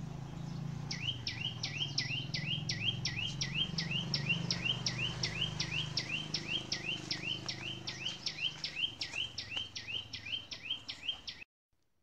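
A small songbird calling, one short sharp chirp repeated evenly about three times a second for ten seconds, then cut off suddenly.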